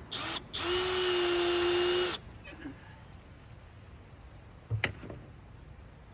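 Power drill driving a screw: a short blip of the motor, then a steady whir for about a second and a half before it stops. A single knock follows a few seconds later.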